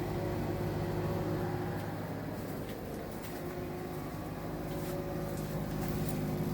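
Amana gas furnace running after its pilot has been relit, giving a steady mechanical hum with several low tones.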